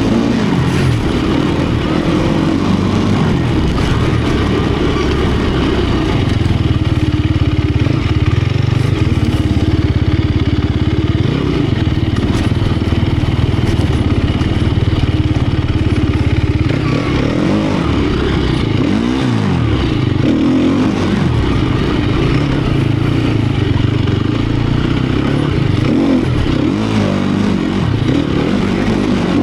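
Sherco 250 SEF Factory's single-cylinder four-stroke engine running under way. It holds steady revs for about ten seconds, then the revs rise and fall repeatedly with throttle changes in the second half.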